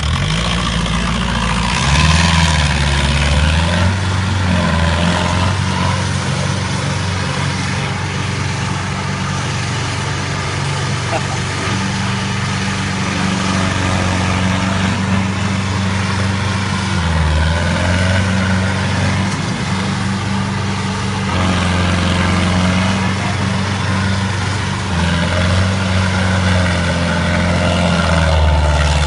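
Ford farm tractor engine running steadily, its speed rising and falling several times as it is worked.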